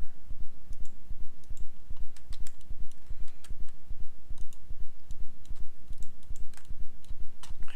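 Scattered computer mouse and keyboard clicks over a constant low hum that throbs several times a second.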